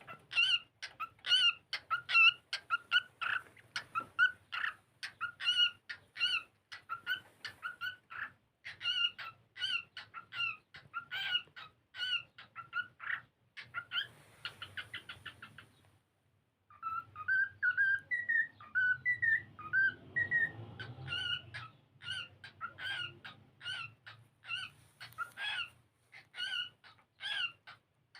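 Cockatiel singing: a long run of short whistled notes, about two a second, with a fast trill about halfway through. After a brief pause, a few rising whistles come before the short notes resume.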